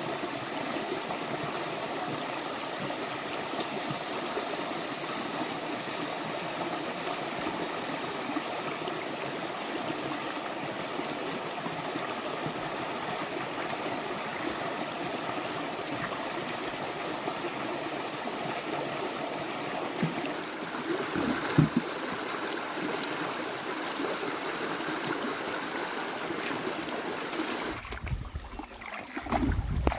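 Stream water running steadily with an even rushing sound, with a couple of short low knocks about two-thirds of the way through. Near the end the water sound drops away and a low rumble takes over.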